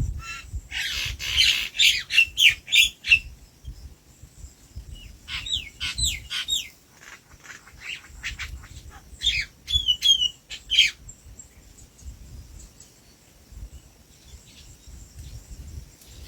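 Bird calling in three bouts of rapid, sharp chirps with quick sweeps in pitch: about a second in, again around six seconds, and again around ten seconds.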